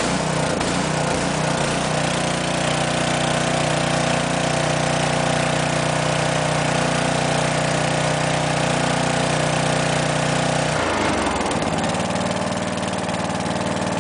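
15 hp lawn tractor engine running shortly after a pull-started cold start, unevenly at first and then holding a steady speed. About 11 s in its pitch dips and it settles into a slower, steady run.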